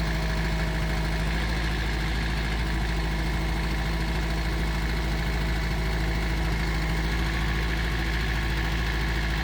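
Heavy earthmoving machine's diesel engine idling steadily with an even, fast pulse.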